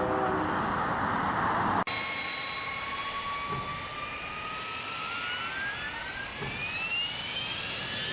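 Jet engine noise: a loud rush that cuts off about two seconds in, followed by a whine that rises steadily in pitch, like a turbine spooling up.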